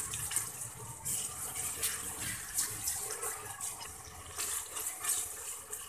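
Chopped tomato, onion and ginger-garlic paste frying in oil in a metal pot with a steady sizzle, while a plastic spatula stirs and scrapes through it; the tomato is being cooked down until soft.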